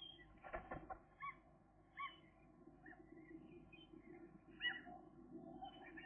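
Faint outdoor ambience with a few short, scattered bird chirps, the clearest about two seconds in and near the five-second mark, over a low steady hum. There is a brief rustle about half a second in.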